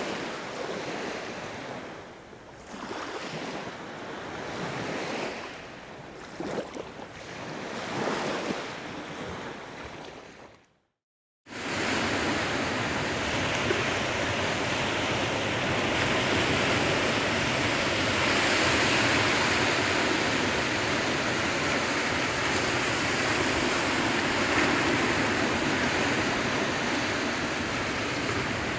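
Sea waves washing onto a shore, each swell rising and falling in loudness. About ten seconds in, the sound fades to a moment of silence, then a steadier, louder rush of surf takes over.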